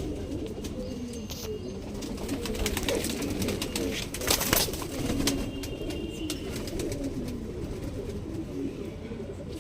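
Domestic pigeons cooing, with a sharp click about four and a half seconds in.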